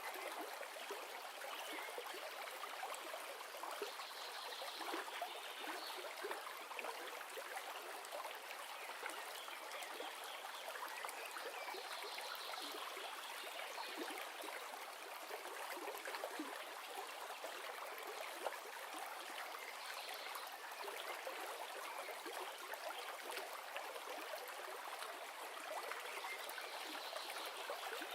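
River stream flowing and trickling in a steady, even rush, used as ambient background noise.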